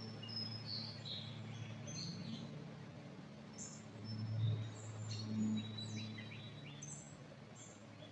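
Small birds chirping with short, scattered high notes, over a steady low hum that swells briefly about four seconds in.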